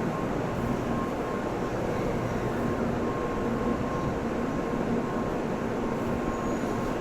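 Shinkansen train running out of the station platform: a steady rumble of wheels and running gear with a faint steady hum.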